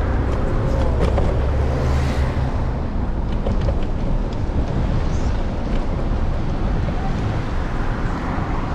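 Wind buffeting the microphone of a camera on a moving electric scooter's handlebars: a steady rushing noise with a heavy low rumble for the first two seconds or so, and a few clicks about three to four seconds in.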